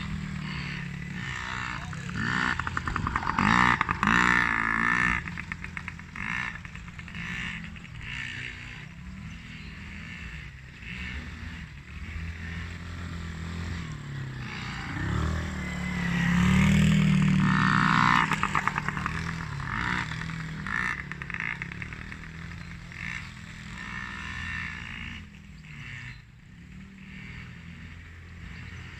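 Motocross bike and quad engines revving, the pitch rising and falling with the throttle. The sound swells louder twice, a few seconds in and again about halfway through.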